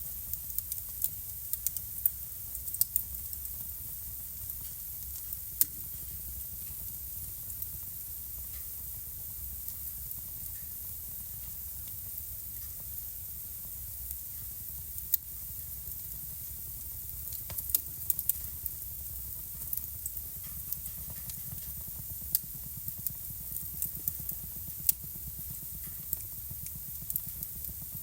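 Wood fire burning in a home fireplace: irregular sharp crackles and pops over a steady low rumble and a soft hiss, with the pops coming in small clusters a few times.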